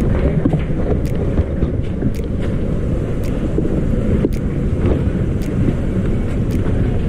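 Train running, a loud steady rumble with light clicks about once a second, with wind buffeting the microphone.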